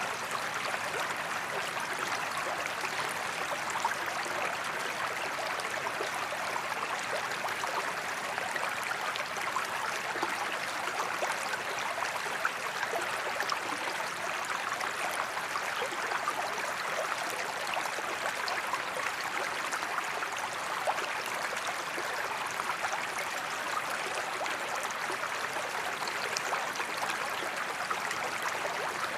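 Waterfall water flowing with a steady, even rush that does not pause or change.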